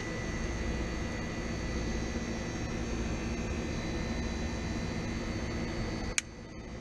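Steady machinery hum with a thin high-pitched whine, ending in a sharp click about six seconds in, after which it drops away.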